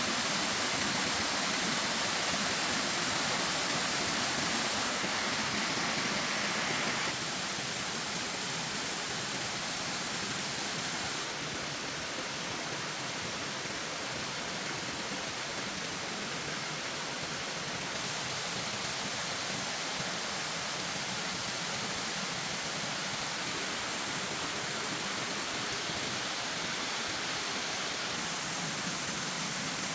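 Steady rushing noise of water, as from rain or running water, that shifts abruptly in level and tone a few times.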